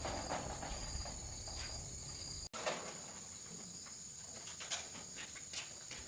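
Insects, crickets, trilling steadily at a high pitch, with scattered light clicks and taps.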